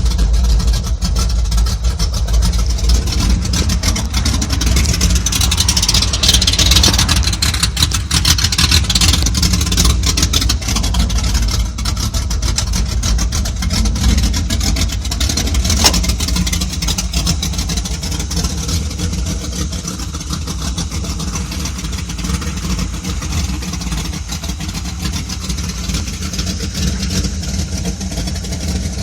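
A 1983 pickup truck's engine running steadily with a low rumble, with some hiss on top that is strongest between about six and ten seconds in.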